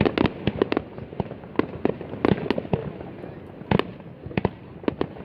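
New Year's Eve fireworks going off in many irregular sharp bangs, some coming in quick clusters, over a steady din of further bursts.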